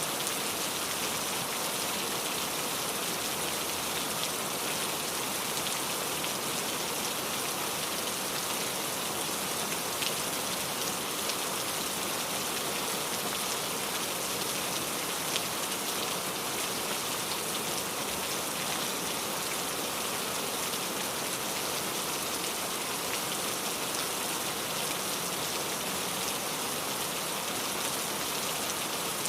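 Steady rain falling, with the hiss of many drops on a surface and occasional individual drop ticks.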